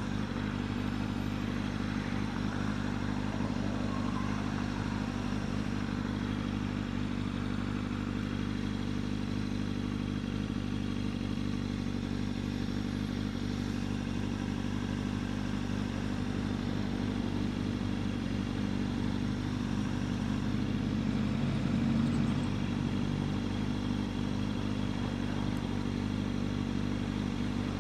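Kawasaki ZX-6R's inline-four engine running at a steady pitch, with no revving, briefly a little louder about three quarters of the way through.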